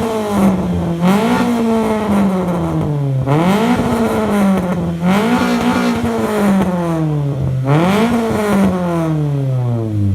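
Nissan SR20 four-cylinder engine being revved hard, about five times: each time the pitch climbs fast and then falls away slowly. Near the end it drops back toward idle.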